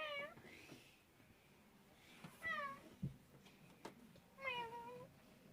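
Domestic cat meowing three times, about two seconds apart, each meow short and dropping in pitch.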